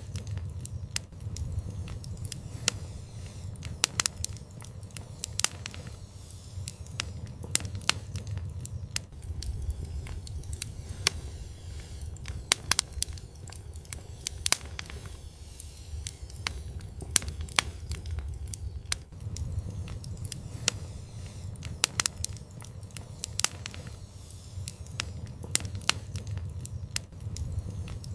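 Wood fire in an outdoor fireplace crackling, with frequent irregular sharp pops and snaps over a steady low rumble of the burning.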